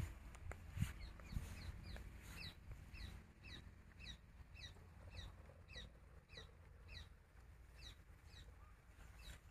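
A bird calling over and over: short, falling high chirps about two to three a second, over a faint low rumble.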